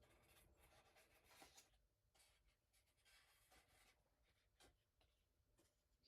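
Near silence, with faint scattered rustles and light taps of cardstock being handled and pressed into place.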